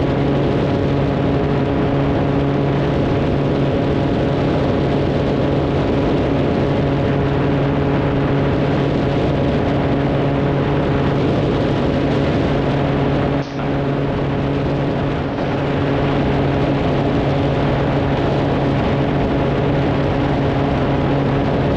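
Cabin sound of a 1978 Cessna T210M's turbocharged Continental TSIO-520 six-cylinder engine and propeller, a steady drone while climbing out just after gear retraction. The sound drops out briefly about halfway through.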